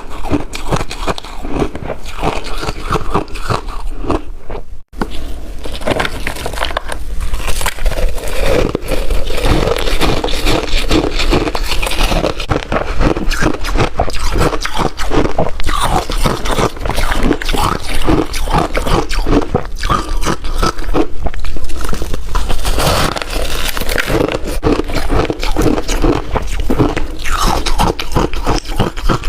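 Ice being bitten and chewed, a dense run of loud crunches, with a brief cut-out about five seconds in.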